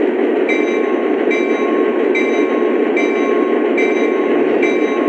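Lionel BNSF SD70MAC model train set running, a loud steady rumble from the model locomotive and cars, with a short ringing tone repeating about every 0.8 s.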